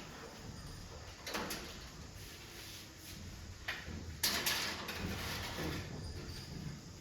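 A few rough scraping, sliding strokes, the loudest and longest about four seconds in, over a low background hum.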